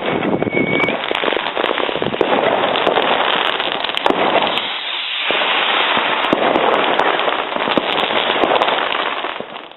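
Many fireworks and firecrackers going off at once: a dense, continuous crackling with sharp bangs throughout, and a short whistle in the first second.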